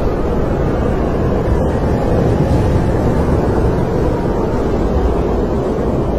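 Snowstorm wind blowing steadily: a dense low rush with a faint wavering howl above it.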